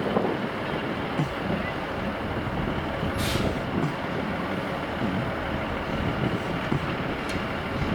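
Steady rumble of a heavy vehicle, with a short hiss about three seconds in and a single sharp click near the end.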